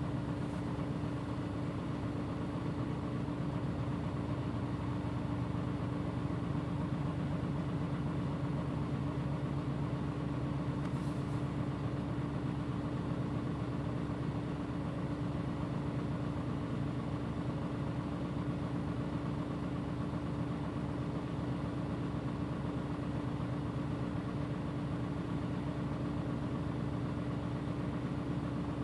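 Mitsubishi Fuso PJ-MP35JM bus engine idling with a steady drone and a constant hum, holding one pitch throughout.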